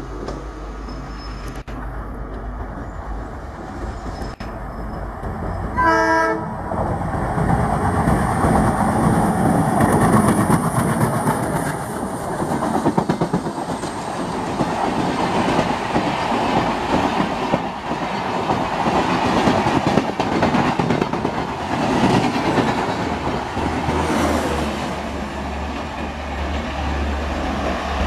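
Indian Railways express train: its horn sounds once, briefly, about six seconds in, then the train runs past with a loud, steady rush and wheels clattering on the rails.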